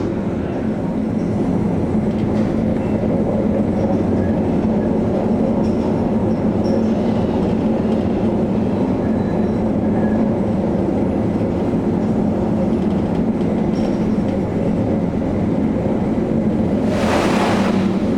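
Steady drone of the Maersk Anglia's engines and machinery, a low rumble with a held hum. Near the end there is a brief rush of noise lasting under a second.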